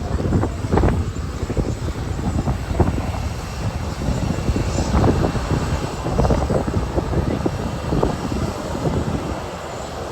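Airliner's jet engines running up for takeoff, a loud rushing noise, with the jet blast buffeting the microphone in irregular gusts.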